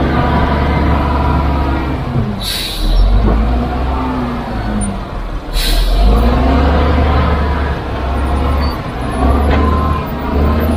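Heavy diesel machinery engine running under load, its pitch rising and falling as it works. Two short hisses of released air come about 2.5 and 5.5 seconds in.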